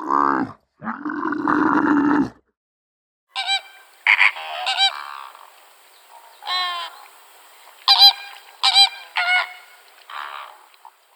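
Domestic geese honking: a series of about eight short, sharp honks, irregularly spaced. They are preceded in the first two seconds by a lower, different animal call.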